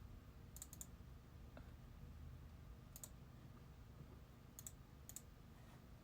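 Near silence with a faint room hum, broken by a few small, sharp clicks: a quick run of three under a second in, then single and paired clicks spread through the rest.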